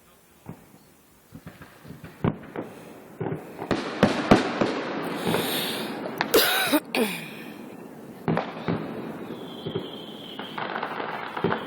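Fireworks going off: a run of sharp bangs that thickens into dense crackling in the middle, then thins out to scattered reports.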